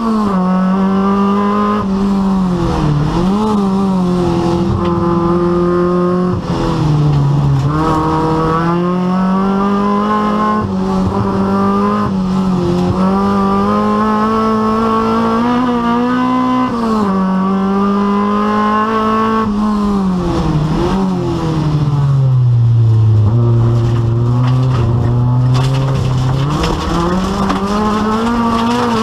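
Rally car engine running hard throughout, its revs climbing and dropping again and again as it accelerates, shifts gear and lifts for corners.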